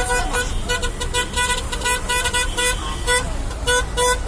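A vehicle horn sounding in many short, quick, irregular toots, over a steady low rumble of engines and traffic.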